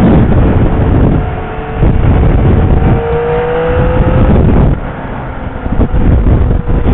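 Yamaha Niken's three-cylinder engine accelerating hard, its pitch climbing, with two brief drops in level, about a second and a half in and again near five seconds.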